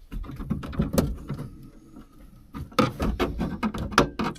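Screwdriver prying at the truck's interior trim: a run of irregular clicks, scrapes and knocks, with a sharp knock about a second in and a cluster of knocks near the end.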